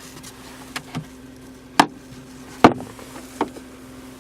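Sharp plastic clicks and knocks from the sun visor and its vanity mirror cover being handled, about five in all, the two loudest a little under two seconds and about two and a half seconds in. A steady low hum runs underneath.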